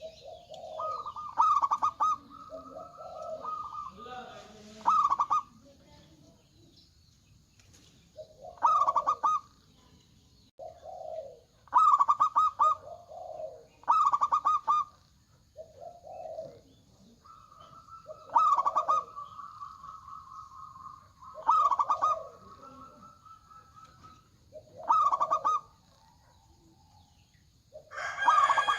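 Zebra doves (perkutut) cooing, several calling back and forth: repeated phrases every few seconds of low coos followed by a rapid, higher trill, some trills held for several seconds. A rooster begins to crow at the very end.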